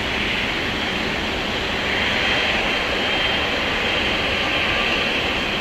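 Jet engines of a Boeing 767-300ER freighter taxiing: a steady rush of jet noise with a high whine, swelling slightly about two seconds in.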